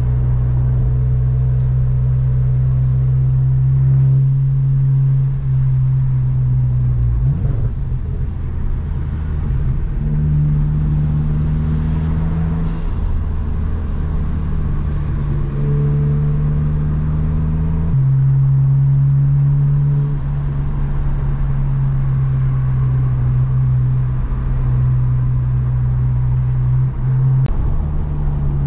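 Volkswagen GTI's turbocharged 2.0-litre four-cylinder engine under way on a winding road, its note holding steady for stretches and stepping up and down several times with throttle and gear changes, over road noise.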